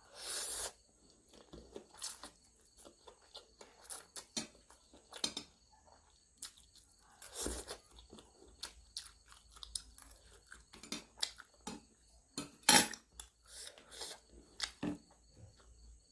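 Close-miked eating: chewing and mouth smacks with scattered crunches and clicks, and one loud clack about 13 seconds in.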